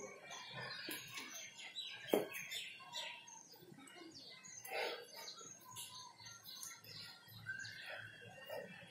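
Birds chirping in short repeated calls, with one sharp knock about two seconds in.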